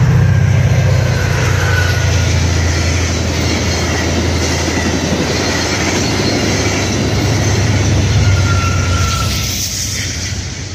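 Passenger train cars rolling past on the rails: a steady rumble of wheels on track, with a faint brief wheel squeal about two seconds in and again near the end.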